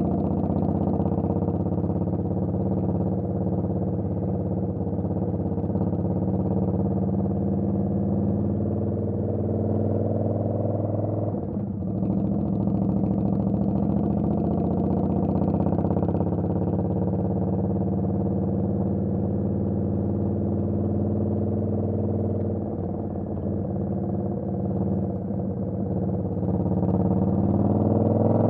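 Indian Scout Bobber's V-twin engine running steadily, with a brief dip and change in pitch about twelve seconds in. Near the end the revs rise as it picks up speed.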